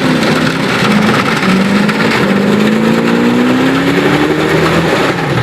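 Car engine held at high revs during a burnout, its pitch climbing slowly and steadily.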